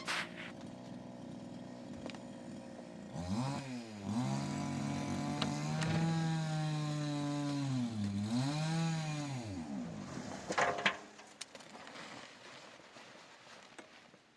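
A small engine idling, then revving up about three seconds in and holding at high speed, dipping briefly, revving once more and dropping back near ten seconds.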